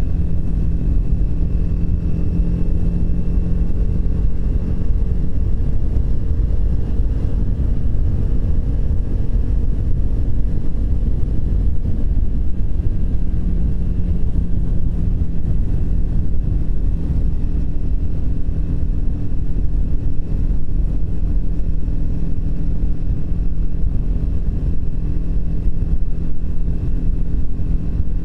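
Triumph Speed 400's single-cylinder engine running at a steady cruise, with a low rumble of road and wind noise.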